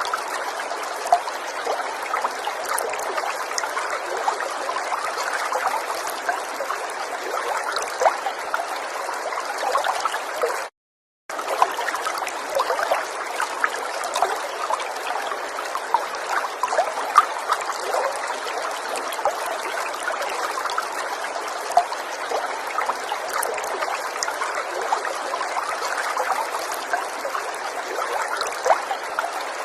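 River water trickling and gurgling over stones, a steady babble of many small splashes. It cuts out completely for about half a second, about eleven seconds in.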